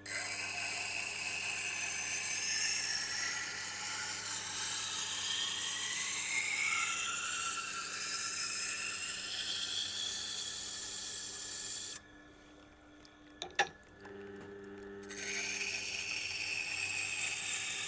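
Nakiri knife edge being ground on a Tormek T8's water-cooled SG-250 stone dressed to a coarse grit: a steady scraping hiss over the low hum of the wheel. About twelve seconds in the grinding breaks off for about three seconds, with a single click, then starts again.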